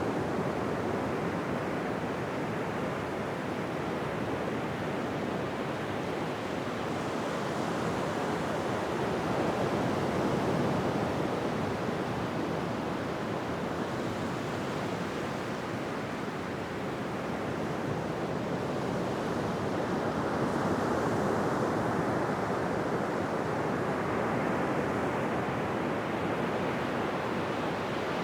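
Ocean waves breaking on a beach: a continuous wash of surf that swells and eases slowly, with a louder surge about ten seconds in and again over the last third.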